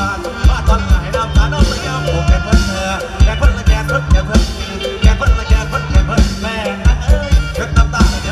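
Live mor lam band music: a fast, steady drum-kit beat under a bass line and a wavering lead melody.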